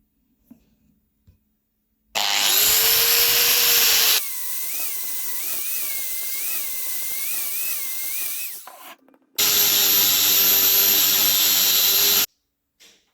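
Electric power tool switched on twice. The first run starts loud, then goes quieter with its pitch wobbling up and down for about four seconds before it stops; the second run is steady for about three seconds and cuts off suddenly.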